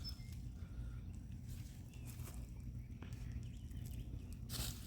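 Hands digging and rustling through loose garden soil to uncover potatoes, with faint scrapes and a brief louder rustle near the end, over a steady low rumble.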